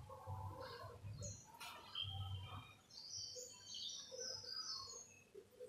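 Faint birds chirping in the background: short, high twittering calls, busiest from about three seconds in, over a low hum that fades out about two and a half seconds in.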